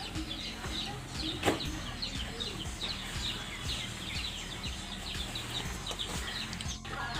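Small birds chirping over and over, many short high downward chirps, over a low steady hum. A single sharp click about one and a half seconds in.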